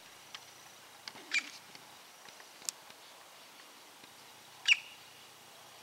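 Two short, high squeaky bird calls about three seconds apart, the second louder, over a faint background hiss, with a sharp tick between them.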